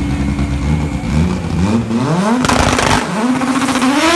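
Drag car's engine revved hard in several rising sweeps, climbing to a high, held rpm near the end as the drive wheels spin in a burnout, with the hiss of spinning tyres over the engine.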